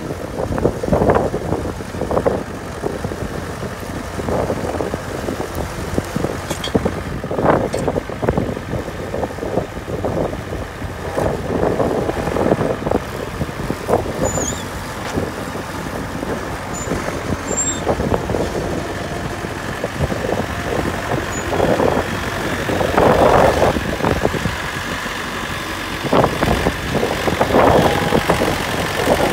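Tractor engine running steadily while pulling a carrot-lifting blade implement through the soil, with irregular clattering and knocks throughout.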